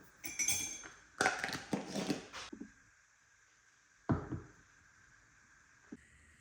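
Objects being handled and set down: a run of light knocks and clatter over the first two and a half seconds, a single thump about four seconds in, and a small tick near the end.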